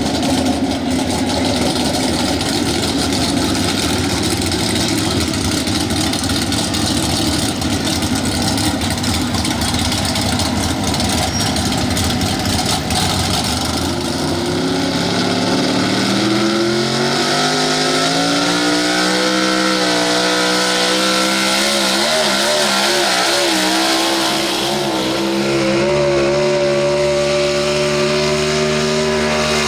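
Pro Stock 4x4 pulling truck engine running hard at high throttle. About halfway through, its note climbs steadily in pitch, then holds at a steady high drone near the end.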